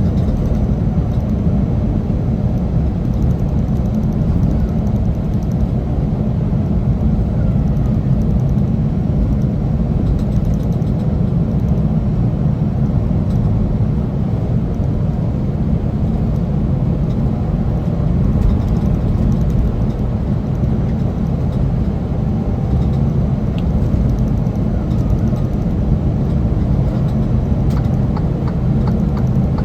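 Semi truck's engine and road noise, a steady low rumble while it climbs a mountain grade.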